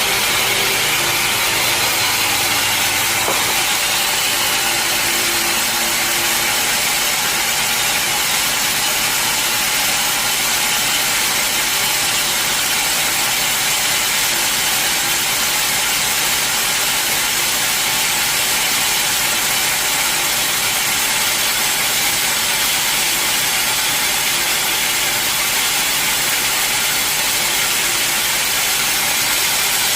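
Band sawmill running steadily: a constant loud machine noise with a hissing top. A lower hum drops away about three seconds in.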